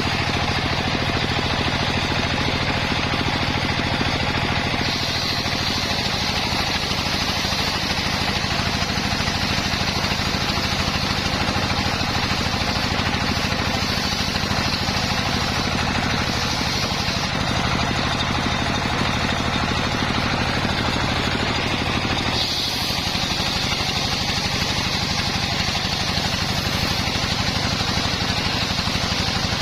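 Engine of a homemade circular saw rig running steadily, with a higher whine that joins about five seconds in, fades away partway through and comes back near the end.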